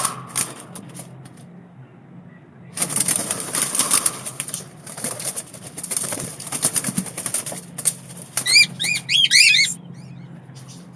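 Small birds' wings flapping rapidly in two flurries, then a quick series of short chirps about eight seconds in.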